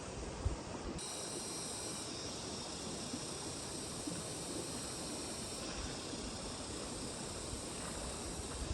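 Outdoor ambience: a steady rushing noise, with a high, even hiss that comes in about a second in.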